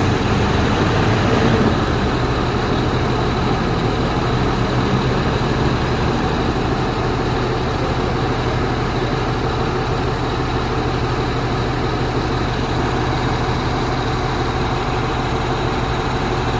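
Four-axle truck's diesel engine running steadily, a low, even hum with a noisy rush over it, slightly louder for the first couple of seconds and then level.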